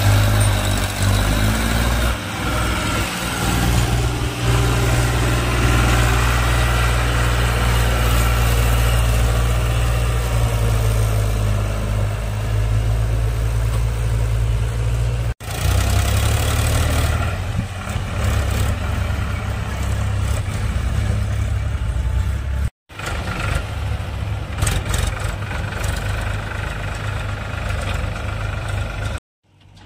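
Diesel engine of heavy earth-moving machinery running steadily, with some changes in engine speed. The sound breaks off abruptly twice and resumes, as separate clips are joined.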